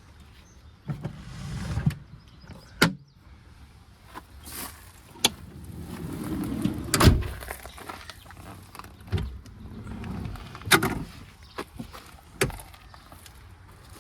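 Scattered sharp clicks and knocks mixed with short stretches of low rumbling handling noise, the loudest knock about seven seconds in.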